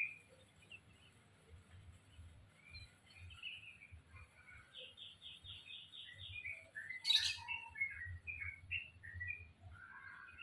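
Small songbirds chirping and twittering in short notes, with a quick run of about seven repeated high notes a little before the middle. A single sharp click about seven seconds in is the loudest sound.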